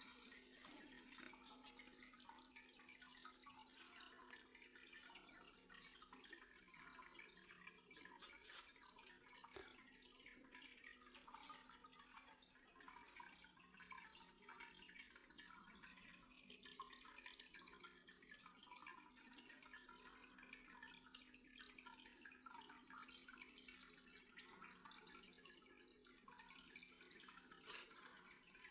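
Near silence: faint, irregular water dripping over a low steady hum.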